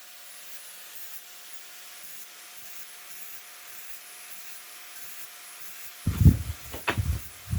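Quiet, steady rasping as the cut edges of a metal cooking grate are smoothed by hand. A few heavy clunks follow in the last second and a half.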